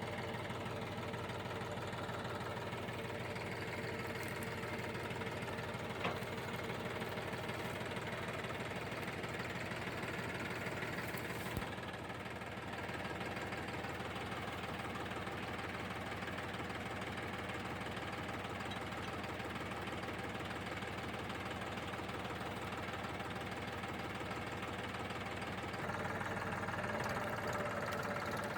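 Massey Ferguson tractor engine running steadily, with one sharp click about six seconds in and the engine getting a little louder near the end.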